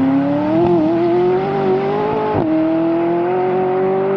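McLaren 570S Spider's twin-turbo V8 accelerating hard, its note climbing steadily, dropping at a quick upshift about two and a half seconds in, then climbing again.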